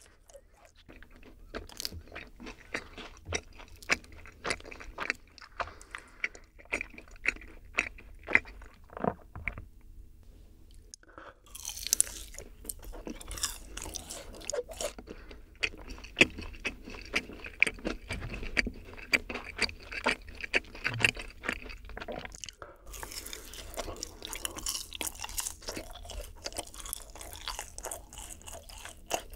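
Close-miked biting and chewing of yakgwa, Korean fried honey cookies: a dense run of crunching mouth sounds, broken by two short pauses, one about ten seconds in and one near the end.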